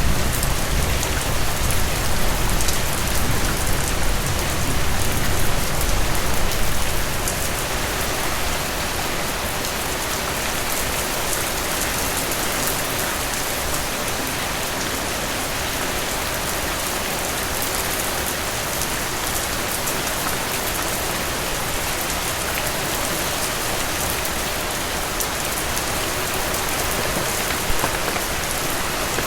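Steady heavy rain drumming on a cabin roof, a dense even hiss of drops. A low rumble at the start dies away about seven seconds in.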